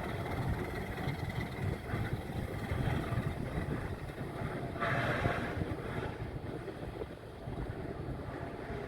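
Alco RS8 diesel locomotive running with a steady low rumble, wind buffeting the microphone. A brief hiss about five seconds in.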